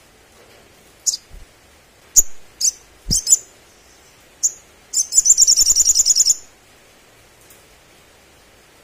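Olive-backed sunbird calling: a series of sharp, high single chirps, then a fast, even trill of about ten notes a second lasting about a second and a half, followed by quiet. A couple of dull low thumps fall under some of the chirps.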